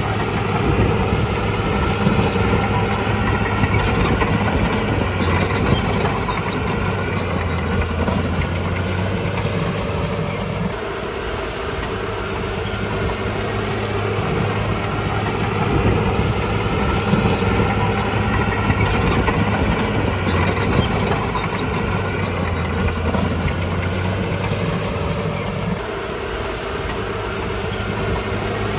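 Komatsu bulldozer's diesel engine running steadily under work, easing off briefly twice, with a few metallic clanks.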